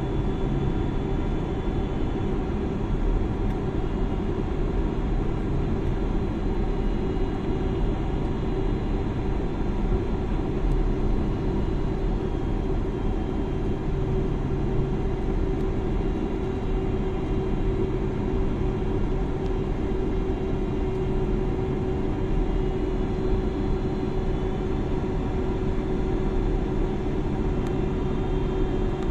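Airliner cabin noise: a steady drone of jet engines and rushing air, with a steady hum, holding even throughout.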